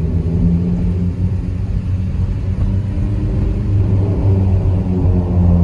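Straight-piped Mazda 3 Skyactiv 2.0 inline-four exhaust droning loudly at low speed, its pitch lifting slightly a few seconds in.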